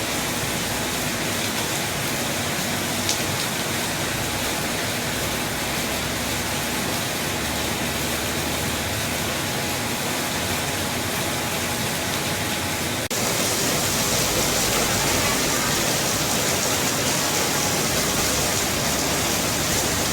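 Heavy rain falling, a steady hiss; about thirteen seconds in it suddenly turns louder and hissier.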